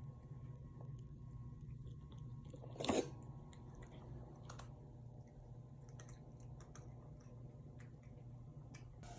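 Cats chewing and crunching food from a container, a run of faint, scattered clicks, with one brief, louder scrape or rustle about three seconds in.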